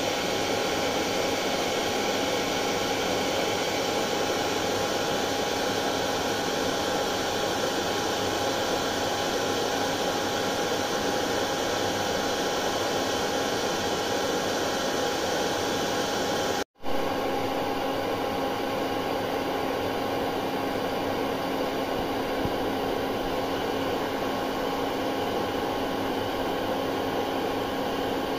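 Hair dryer running steadily: an even rushing blow of air with a steady whining hum. About 17 seconds in it cuts out for an instant and comes straight back with a slightly changed, lower hum.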